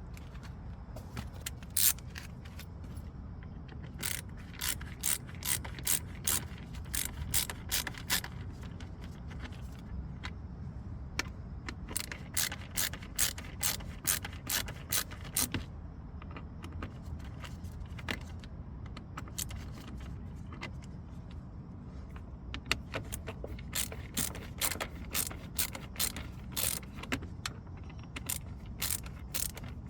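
Ratcheting hand tool clicking in quick runs of sharp ticks, stopping and starting several times, as fasteners are turned during dashboard disassembly.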